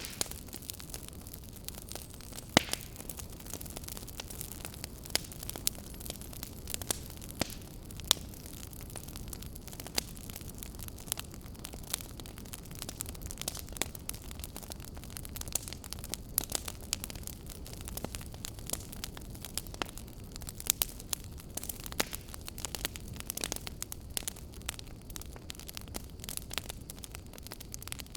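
Wood fire in a fireplace crackling: sharp pops and snaps over a steady low rumble and hiss, the pops coming thicker in the last several seconds.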